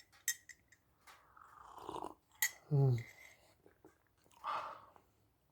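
A person sipping hot tea: two soft slurping sips, with a brief voiced 'mm' between them and a few small clicks near the start.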